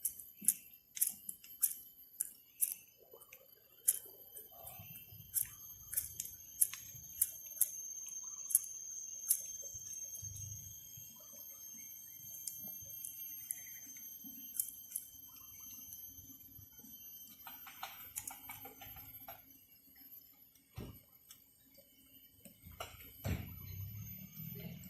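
Outdoor background of steady high-pitched whining tones with many sharp clicks, the clicks coming quickly in the first ten seconds and thinning out after that, and a single dull thump near the end.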